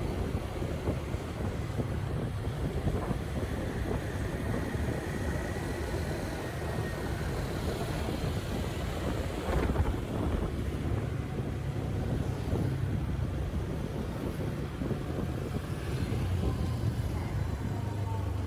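Street traffic: a steady rumble of passing motor vehicles, with wind buffeting the microphone.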